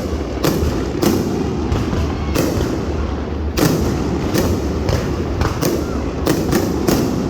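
Aerial fireworks display going off: a steady string of sharp bangs, about one or two a second, each trailing an echo, over a continuous low rumble.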